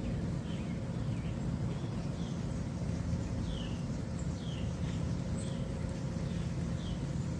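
A bird calling over and over, short falling chirps about once a second, over a steady low rumble of outdoor background noise.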